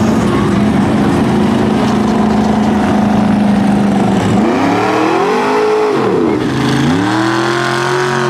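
Mud-bogging truck engine running at steady high revs, then revved up and let back down twice in long swells from about four seconds in.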